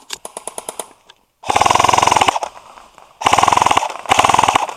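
Airsoft electric gun (AEG) firing two full-auto bursts of about a second each, close and loud, with a short pause between them. A fainter rattle of rapid shots comes before them in the first second.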